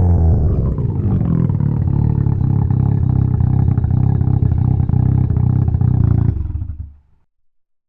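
Mazda 1.3-litre two-rotor (13B) rotary engine dropping back from a rev to a choppy, uneven idle in the first second. The sound cuts off about seven seconds in.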